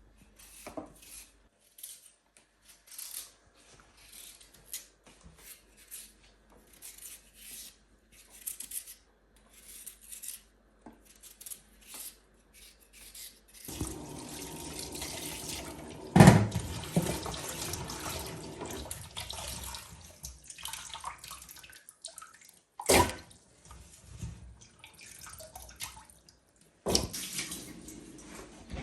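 Scattered light clicks and clinks. About halfway through, water starts running steadily for some eight seconds, with a few sharp knocks over it.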